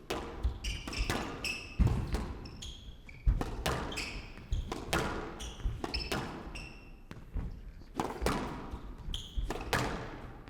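Squash rally: the ball is struck by rackets and hits the court walls in a string of sharp impacts at an irregular rhythm, the hardest two about two and three seconds in. Short high squeaks from players' shoes on the court floor come between the shots.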